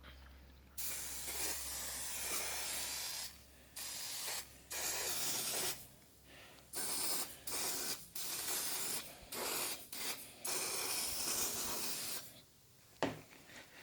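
Aerosol spray can hissing in a series of bursts of varying length, the first and last longest, as cleaner is sprayed onto the grimy parts to soak them.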